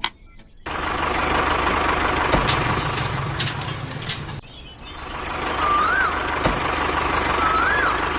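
A DIY mini tractor's small motor running with a steady whine. It starts suddenly, cuts out about halfway, then builds back up. Two short rising-and-falling whistles sound over it near the end.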